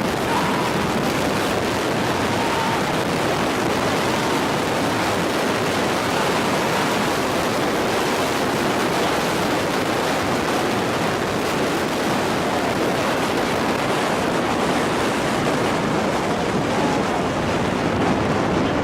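Steady, loud wind rush buffeting the microphone, with no distinct engine note or events standing out.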